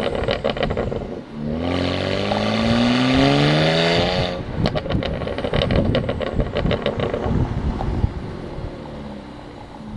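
BMW N54 twin-turbo inline-six revved once, rising to about four seconds in. When the throttle is closed, the exhaust breaks into a fast run of pops and crackles for about three seconds, then settles down. The burble comes from the MHD tune's exhaust burble setting on aggressive, through catless downpipes.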